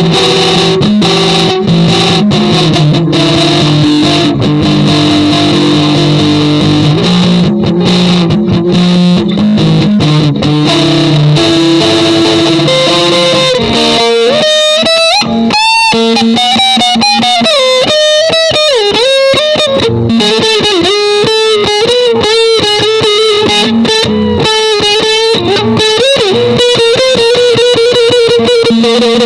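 Electric guitar played through effects with distortion: held, layered chords for the first half, then about halfway a lead line with wide pitch bends and vibrato over a steady low note.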